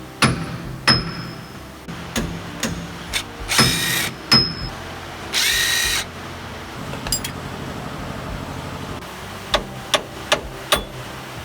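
Workshop tool work: sharp metallic clicks and knocks, with two short bursts of a power tool, each under a second, about three and a half and five and a half seconds in.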